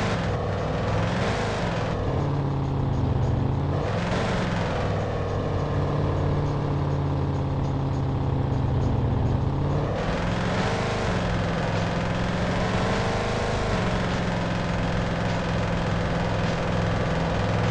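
A car driving, heard from inside the cabin: a steady hum and road noise, with the engine pitch rising and falling a few times.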